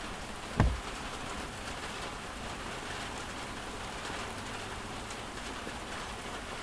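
Heavy rain pouring down on a motorhome, heard from inside as a steady hiss. A single brief thump comes about half a second in.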